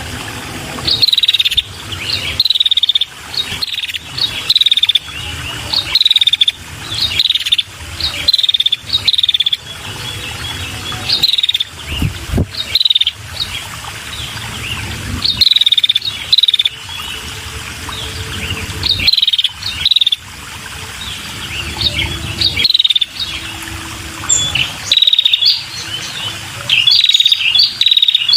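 Female red-headed prenjak calling: short, high chirps, each a quick hooked note, repeated about once or twice a second. This is the female call used to lure male prenjak.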